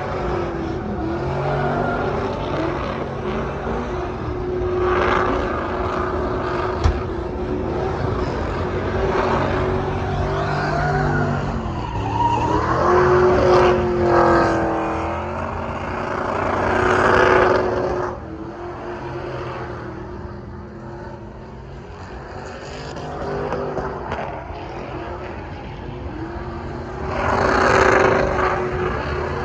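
Vehicle engines running, with several swells of revving or passing: one at about 5 seconds, a longer one around 13 to 17 seconds, and another near the end.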